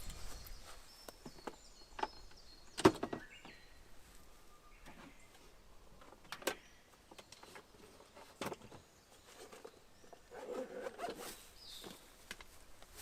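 Handling noises: four sharp clicks and knocks, the second the loudest, then a patch of rustling near the end, over faint high chirps.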